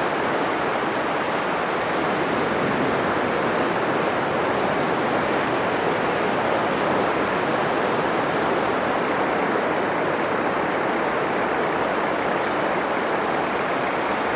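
Atlantic surf breaking on a sandy beach: a steady, even wash of wave noise with no single crash standing out.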